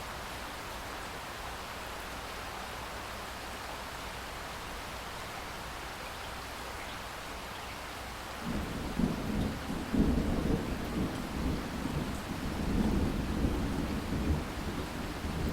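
Steady rain falling, with thunder breaking in about halfway through and rolling on in low, uneven rumbles to the end.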